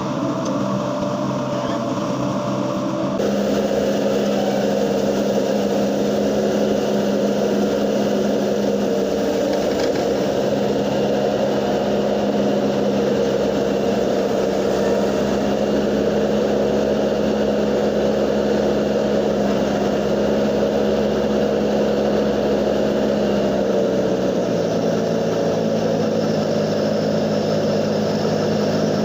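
Excavator's diesel engine running steadily. About three seconds in it gets louder, and near the end its pitch drops a little as the engine slows.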